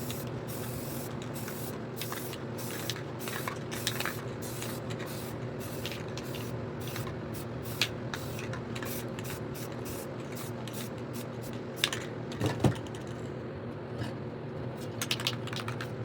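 Aerosol spray paint cans hissing in many short bursts, with a few sharper clicks near the end, over a steady low hum.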